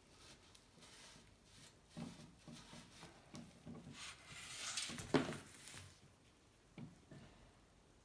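Faint workbench handling noises from bicycle bottom bracket parts: a few light knocks, then a rubbing swish about four seconds in that ends in a sharper knock, and one more small knock near the end.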